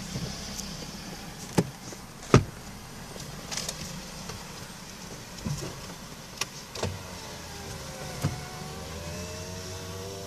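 Inside a car in an automatic car wash: a steady low hum, broken by several sharp clicks and knocks. From about seven seconds in, a wavering pitched whine joins, rising and falling.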